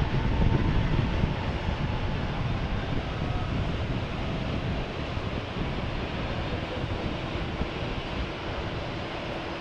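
Low rumble of a passing jet airliner's engines, loudest in the first second or two and then slowly fading, with wind buffeting the microphone.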